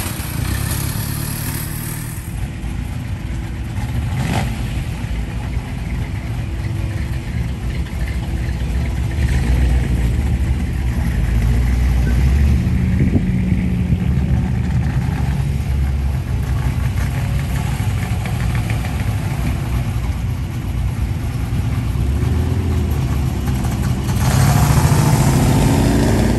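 Engines of old cars running as the cars pull away and drive past one after another. Near the end, one engine gets louder and rises in pitch as a car accelerates.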